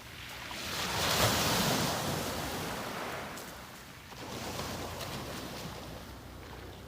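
Small sea waves breaking and washing up on a beach: one wave swells and crashes about a second in and hisses away, and a smaller wash follows about four seconds in.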